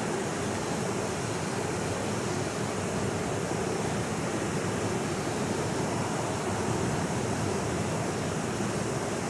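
Waterfall rushing: a steady, even roar of falling water without any change.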